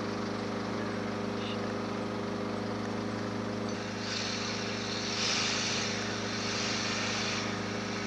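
Steady drone of a payloader's engine running at the beach landing. A hiss rises over it from about four seconds in and drops away shortly before the end.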